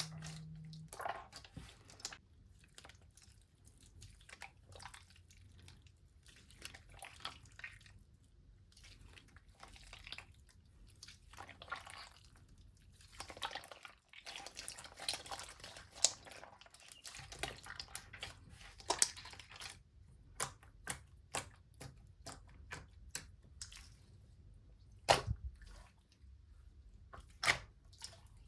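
Slime being squished and stretched by hand, making irregular small clicks and pops, with a few louder pops near the end.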